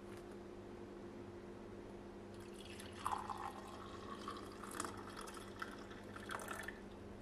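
Liquid pouring and splashing, with drips, for about four seconds, starting a little over two seconds in, over a steady low hum.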